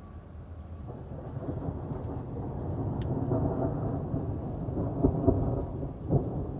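Thunder rolling during a rainstorm: a low rumble swells from about a second in and peaks with a few sharper cracks near the end, over steady rain.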